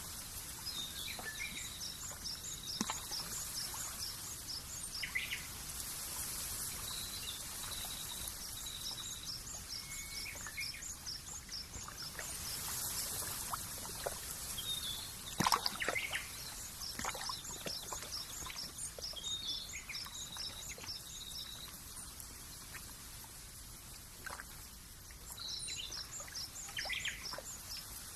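Outdoor nature ambience: birds calling in runs of quick high chirps several times over a steady hiss, with scattered short plinks and one sharp click about halfway through.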